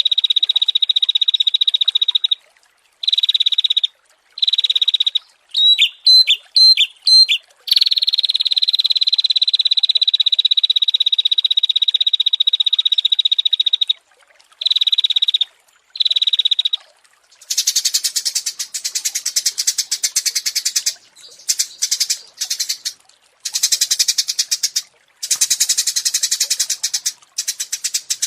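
High-pitched animal trills from a songbird-training (masteran) recording: a long even trill, broken by short gaps and a burst of quick chirps, gives way about two-thirds of the way in to a harsher, buzzier rattling trill in short runs.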